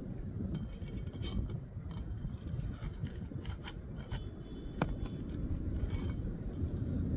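Metal nail-pulling tool scraping and ticking under an asphalt shingle as a roofing nail is pried out, with one sharp click about five seconds in, over a steady low rumble.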